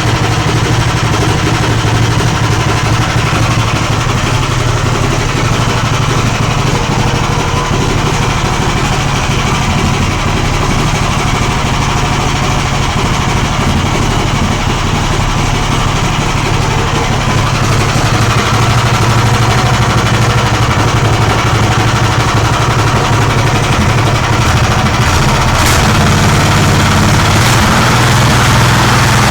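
Magnum BS190F 15 hp single-cylinder four-stroke petrol engine running steadily on a break-in run, getting slightly louder a little over halfway through.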